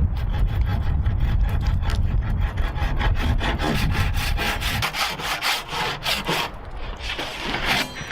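Wood being sawn by hand, a quick run of scratchy back-and-forth strokes in the second half, over a heavy low rumble that fades out about five seconds in.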